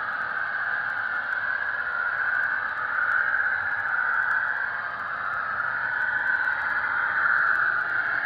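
HO-scale model diesel locomotive's sound decoder (Soundtraxx Tsunami) playing a running EMD diesel engine through a tiny onboard speaker, thin and steady with slow swells in level.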